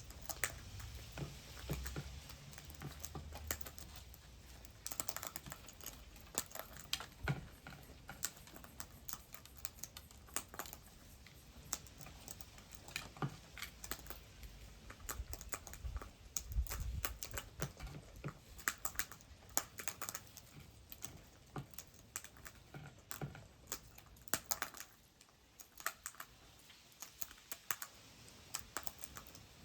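Birds pecking seed at a feeder: irregular sharp clicks and taps, sometimes several a second.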